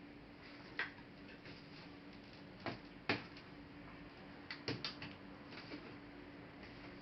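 Scattered sharp clicks and taps of laptop plastic and metal parts being handled, a few single ones and a quick cluster of three about two-thirds through, over a faint steady hum.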